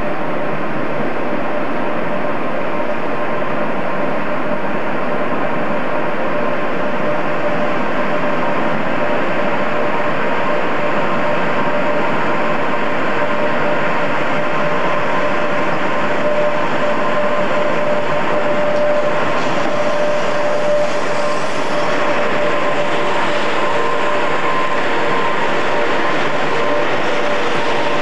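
Electric locomotive-hauled passenger train running slowly into a station platform: a steady rumble of the train with a constant hum from the locomotive.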